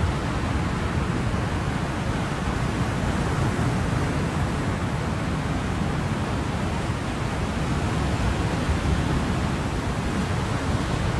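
Ocean waves and surf, a steady, even wash of noise with no distinct breaking waves standing out.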